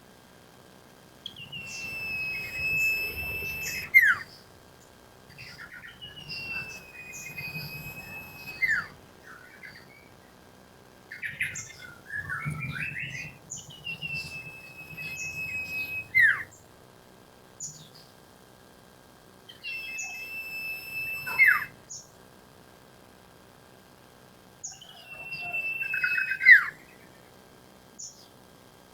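Iora song: five phrases a few seconds apart. Each is a long steady whistle that ends in a sharp downward-sweeping note.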